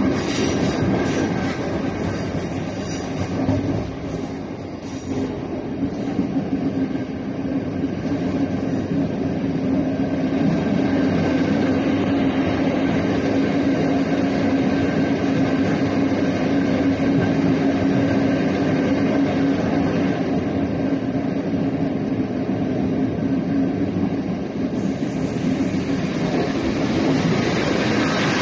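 A passenger train running, heard from inside the carriage: a steady rumble of wheels on rails under a steady low hum. There are a few rail-joint clicks in the first second, and a brighter hiss comes in near the end.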